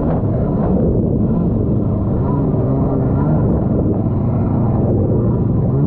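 Engines of small stand-up jet boats running under throttle, the engine note wavering up and down as the riders speed up and ease off.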